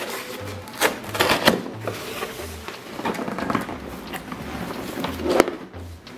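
Packaged toy parts being taken out of a box and set on a table: rustling packaging with irregular clicks and knocks, the sharpest about a second in and again near the end.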